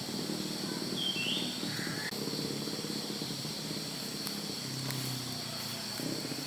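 Forest ambience: a steady high-pitched hum with low rustling beneath it, and a couple of short bird chirps, one gliding downward about a second in and another near two seconds in.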